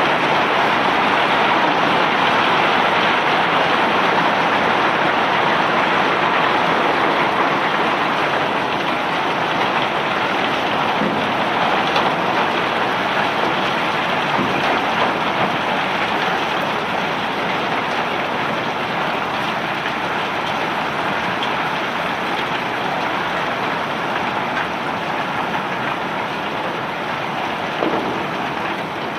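Bulk rock cargo pouring off a self-unloading barge during unloading: a dense, steady hiss that eases a little after about eight seconds.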